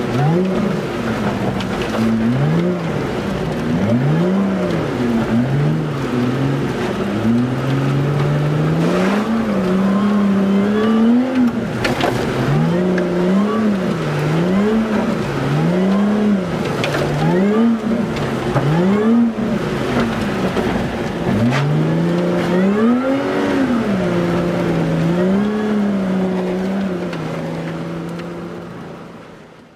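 Lotus Exige S V6's supercharged 3.5-litre V6 heard from inside the cabin, revving up and down over and over as the throttle is worked to hold the car in drifts. It fades out near the end.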